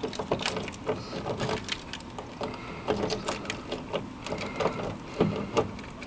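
Irregular metal clicks and rattles of a 2001 Ford E-350 van's rear door lock and latch mechanism being worked by hand to test whether it locks.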